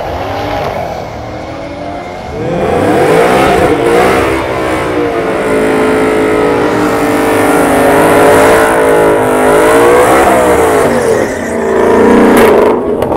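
Drag car launching and accelerating hard down the strip: the engine note climbs about two seconds in and stays loud, its pitch rising and falling through the run. Near the end a white Ford Mustang drives close past, briefly louder still.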